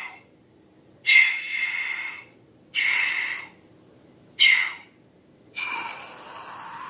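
Four short, airy hissing bursts with a squeaky edge, each starting suddenly and fading, then a longer fifth hiss near the end whose pitch rises as it closes.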